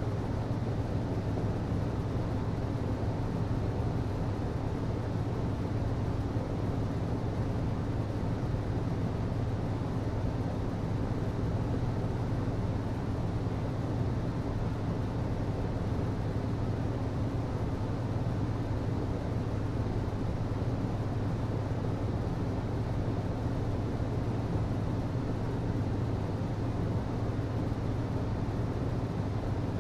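HVAC system running steadily: a constant low hum under an even rush of air.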